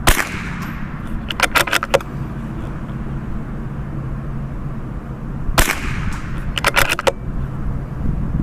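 Two shots from a CZ 457 bolt-action .22LR rifle, about five and a half seconds apart. After each shot comes a quick run of four or five clicks as the bolt is worked, and wind rumbles on the microphone throughout.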